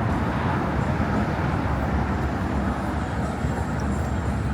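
Steady rumble of road traffic on the bridge's roadway, an even noise with no single event standing out.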